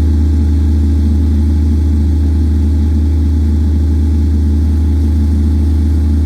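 Alexander Dennis Enviro 400 double-decker bus's diesel engine idling, a loud, unchanging low hum.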